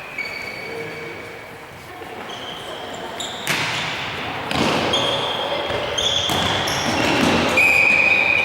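Tchoukball play echoing in a sports hall: the ball thuds several times, with several high held squeaks and players' voices.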